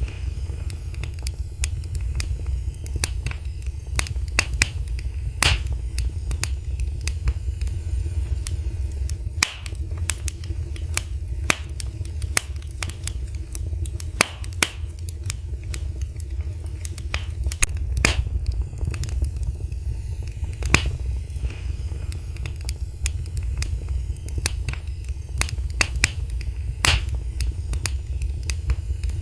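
Wood fire burning in a fireplace: irregular sharp crackles and pops, several a second and some louder than others, over a steady low rumble of the flames.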